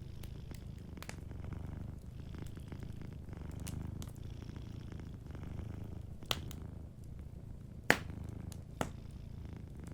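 Domestic cat purring steadily, the low purr swelling and easing with each breath, over a wood fire that gives a few sharp crackles, the loudest about eight seconds in.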